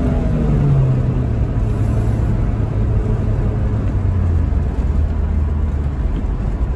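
Supercharged 2.0-litre four-cylinder engine of a 2005 Chevy Cobalt SS, heard from inside the cabin while driving. Its note drops shortly after the start, then holds a low drone that sinks slowly in pitch over steady road rumble.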